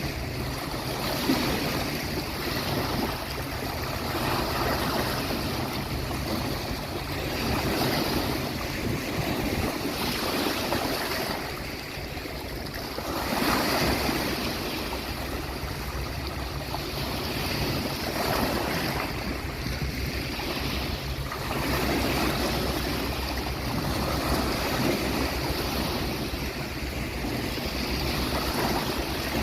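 Sea waves washing onto a beach, swelling and easing every few seconds, over a steady low rumble.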